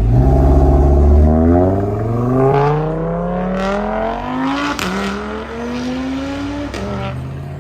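A performance car accelerating hard through the gears: its engine note climbs steadily, drops sharply at upshifts about 5 and 7 seconds in, and fades as the car pulls away.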